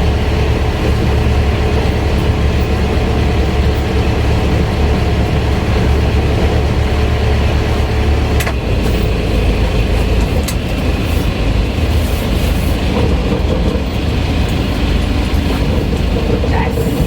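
Sailboat's inboard engine running steadily, motoring forward against wind and waves while the anchor is raised, with wind rushing over the microphone. The low rumble shifts slightly about halfway through.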